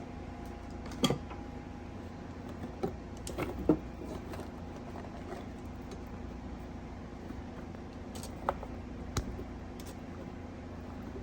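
A handful of short clinks and knocks from cookware being handled, the loudest about a second in and just before four seconds in, over a steady hum.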